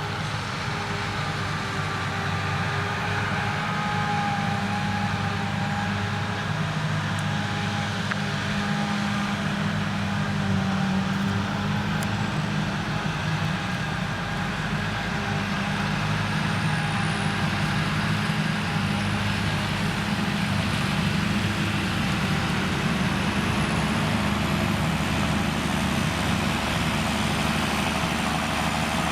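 Krone Big X 1100 forage harvester running steadily under full load while chopping a standing triticale crop: the deep, even note of its V12 diesel with a faint wavering whine above it.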